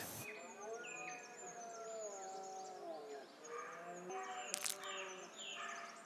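Faint small-bird chirps over soft, slowly gliding held tones, with one brief click about two thirds of the way through.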